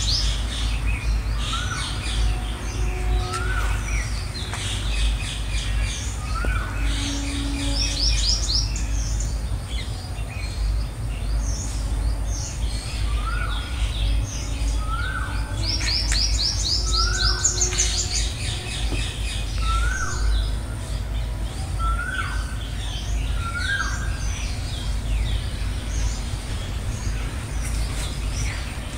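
Several birds calling: one short rising note repeated every second or two, and bursts of fast, high trills from another bird, over a steady low rumble.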